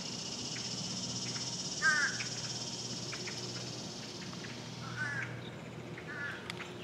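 Three short, harsh, crow-like bird caws, the loudest about two seconds in, over a steady high buzz that stops about five seconds in.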